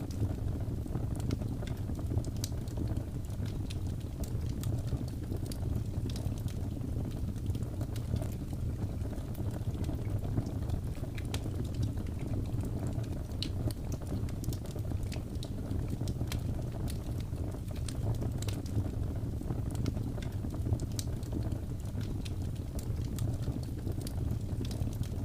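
Wood fire crackling in a fireplace, with irregular sharp pops scattered throughout over a steady low rumble.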